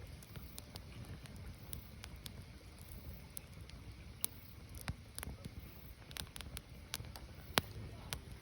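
Firewood burning: irregular sharp crackles and pops over a low steady rumble, with a few louder pops about halfway through and near the end.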